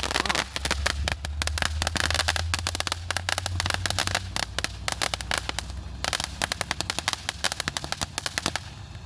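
A firework crackling with dense, rapid pops and cracks in quick succession, over a low rumble in the first few seconds.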